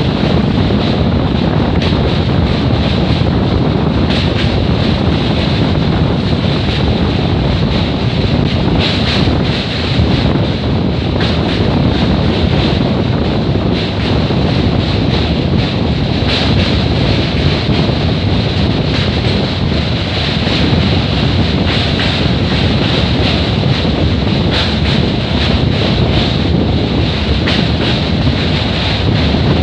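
Wind buffeting the microphone at the open window of a moving passenger train, over the steady running rumble of the train crossing a steel truss bridge. The noise is loud and unbroken throughout.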